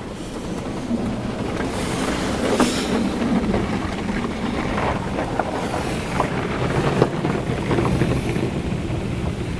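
Mark VII ChoiceWash XT automatic car wash heard from inside the car: a steady rush of water on the car, with several bursts of hissing spray and many scattered knocks against the body.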